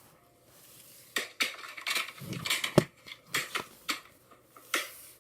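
A VHS cassette and its case being handled: a series of sharp hard-plastic clicks and knocks with a short run of clatter in the middle.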